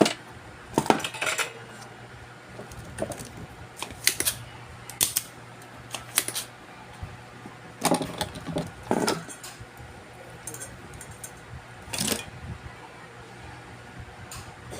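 Small metal tools and parts clinking and clacking as they are handled and set down on a workbench, in about eight separate irregular knocks, some with a short ring.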